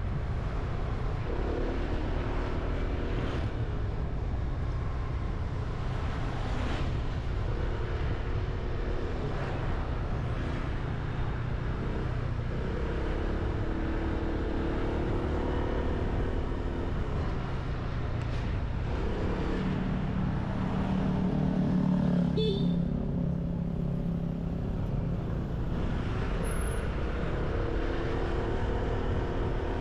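Motorbike engine running under the rider with rushing road and wind noise and passing traffic. The engine note comes and goes with the throttle, and a louder low hum swells about two-thirds of the way through.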